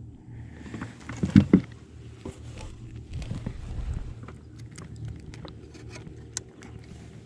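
Knocks and light clicks of a largemouth bass being handled and laid on a measuring board on a kayak, with two loud knocks about a second and a half in, over a low steady hum.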